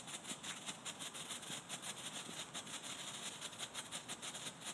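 Strobe firework burning, giving a faint, rapid, irregular crackle of sharp pops.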